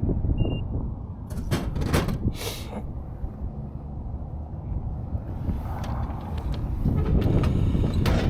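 Harley-Davidson Heritage Classic's Milwaukee-Eight V-twin running through a Rinehart exhaust. A few short, sharp hissing bursts come between one and three seconds in, and the engine grows louder near the end.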